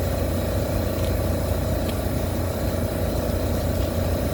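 Steady low machinery hum with a constant mid-pitched tone over it, and a few faint clicks.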